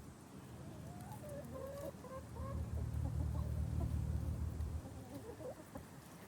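Domestic hens clucking, a run of short wavering calls. A louder low rumble runs under them through the middle.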